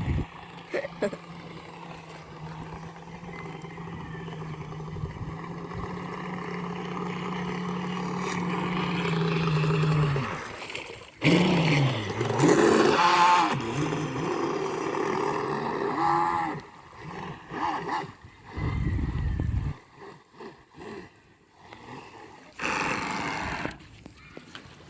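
Homemade RC boat's motor running with a steady hum that grows louder over the first ten seconds; the boat runs with an abnormal sound from a broken propeller-shaft cross joint. About eleven seconds in, the pitch dips and comes back up, and after that there are only short bursts of noise.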